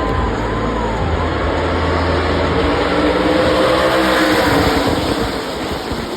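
A pack of NASCAR Truck Series race trucks with V8 engines at full throttle, passing at speed just after the green flag. The engine noise swells to its loudest about four seconds in, with the engine pitch bending up and then down as they go by, and eases off near the end.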